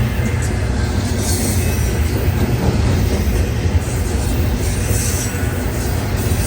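A train rolling past with a steady low rumble of wheels and cars, and brief high-pitched wheel squeals about a second in and again about five seconds in.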